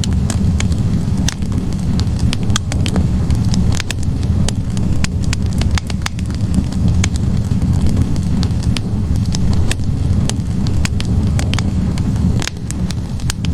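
Wood fire burning in a fireplace: a steady low roar of flames with many sharp, irregular crackles and pops from the burning logs.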